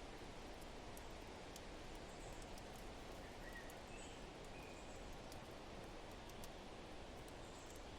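Fireplace crackling with scattered sharp pops over a steady wind-like hiss, and a few short bird chirps around the middle.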